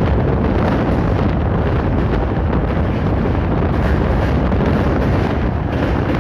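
Loud, steady wind noise buffeting the microphone, with a low rumble under it.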